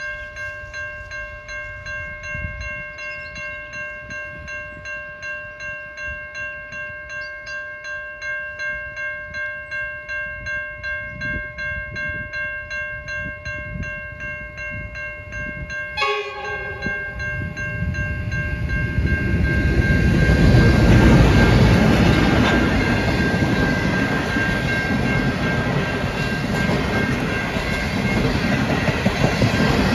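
Level crossing bells ringing in a steady, even pulse. About halfway through there is a sudden sharp noise, then a passenger train of stainless-steel carriages rumbles and clatters through the crossing. It grows loud and stays loud over the bells.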